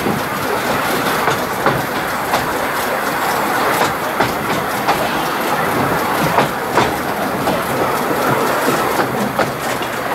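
Narrow-gauge train running along the track: a steady rumble of wheels on rail, broken by irregular clicks and knocks.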